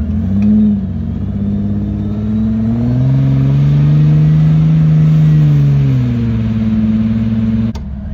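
Jeep Cherokee XJ engine revving under load as it climbs a rock ledge: a short blip about half a second in, then the revs rise from about two and a half seconds, hold, and fall back around six seconds. The sound breaks off suddenly near the end.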